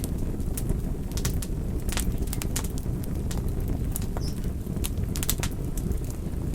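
Wood fire burning: a steady low roar of the flames with frequent sharp crackles and pops from the burning wood, a few each second.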